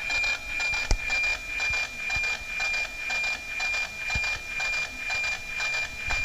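NOAA weather satellite APT signal heard through a radio receiver: a steady high whistle with a rasping tick-tock repeating about twice a second, one tick for each scanned image line.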